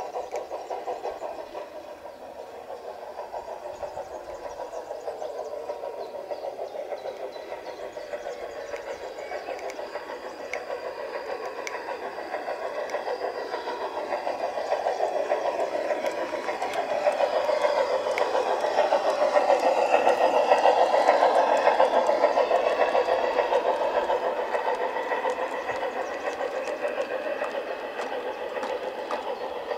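Garden-scale model train running along the track and passing close by, with a fast, fine rattle. It grows louder to a peak about two-thirds of the way through and then fades somewhat.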